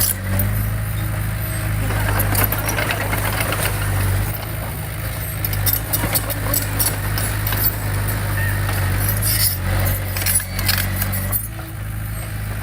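Diesel engine of heavy earthmoving equipment running steadily at a low pitch, with irregular metallic clinks and rattles on top.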